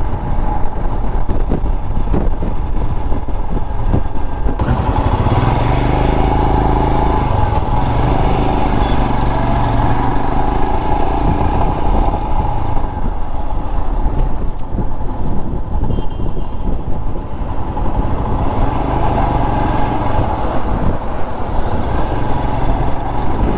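Royal Enfield Himalayan's 411 cc single-cylinder engine running under way, with wind noise on the microphone that grows louder from about five seconds in and eases off again around thirteen seconds.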